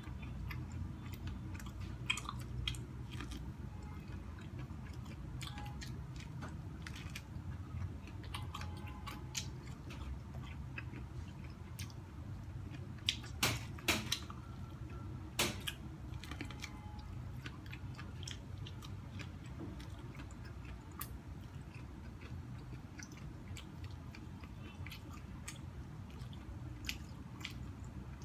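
A person biting and chewing corn on the cob close to the microphone: scattered short crunching clicks over a steady low hum, with a few louder clicks about halfway through.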